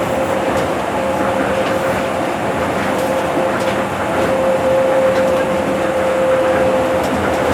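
Tokyo Monorail train, a rubber-tyred straddle-beam monorail, running at speed. A steady rumbling running noise carries a continuous high hum, with faint clicks now and then.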